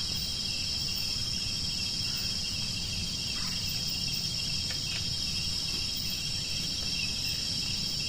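Steady, unbroken chorus of insects, a continuous high-pitched trilling, over a low steady rumble.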